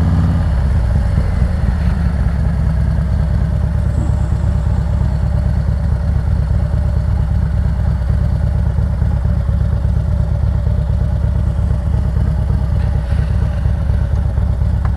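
Harley-Davidson Road Glide Special's V-twin engine running steadily at low revs with an even, loping pulse.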